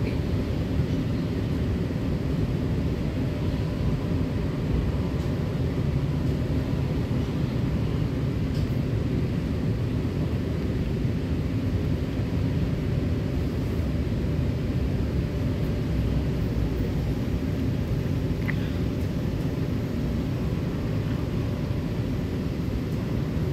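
Steady rumble of an MTR K-Train electric multiple unit running along the line, heard inside the passenger car, with a faint steady whine over it.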